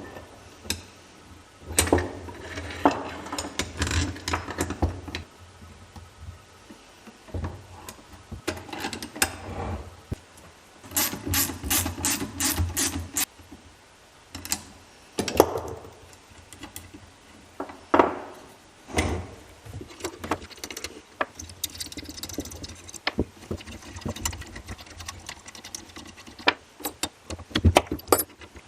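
Hand tools working on metal hardware: irregular clinks, knocks and scrapes, with a spell of rapid, even clicking near the middle.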